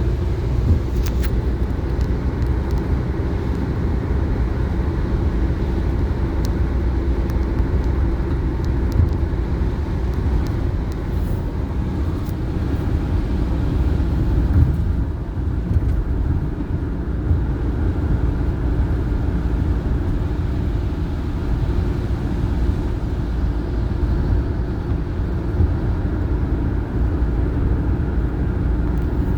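Steady vehicle engine and road noise, a continuous low rumble with a faint hum.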